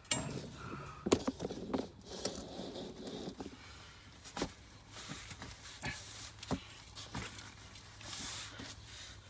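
Scattered clicks, knocks and rustling of hands and tools handling parts in a car's engine bay. A sharp knock comes about a second in, and single clicks follow every second or so.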